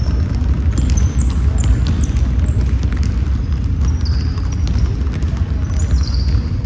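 Basketball game on a court: sneakers squeak on the floor in many short high chirps, and the ball bounces with scattered sharp knocks, over a steady low rumble.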